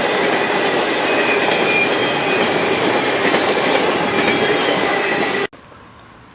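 A Norfolk Southern freight train rolling past, its cars and wheels rumbling on the rails with a faint high wheel squeal. It cuts off abruptly about five and a half seconds in, leaving a much quieter background with a few faint clicks.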